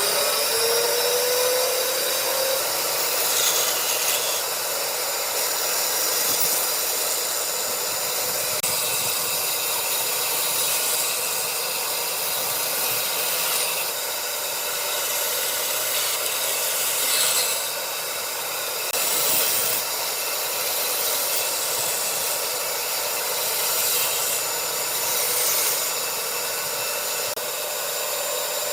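Electric power tool spinning up near the start, then running steadily against wood with an even, hissing grind that swells slightly now and then.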